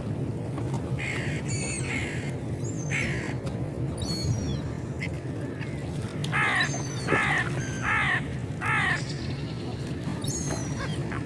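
Gulls calling, with a run of four harsh, downward-slurred calls about two-thirds of the way through, over a steady low background rumble.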